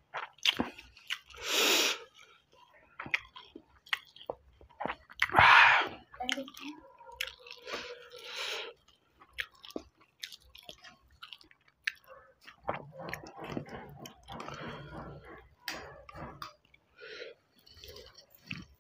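Close-up chewing and wet mouth smacking of rice mixed with green chilli chutney, eaten by hand, with many short scattered clicks. Two louder breathy noises stand out, about a second and a half and five and a half seconds in.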